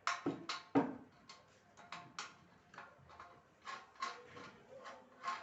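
Irregular sharp clicks and knocks, about a dozen of them, loudest near the start, as hard parts are handled during assembly of a Singer sewing machine.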